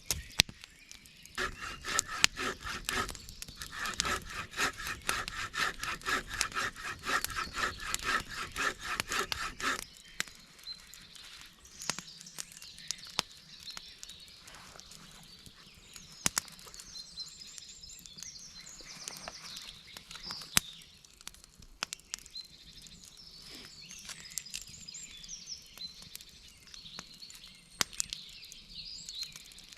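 Hand saw cutting through wood in quick, regular back-and-forth strokes. The sawing stops about ten seconds in, leaving high chirping and a few scattered small clicks.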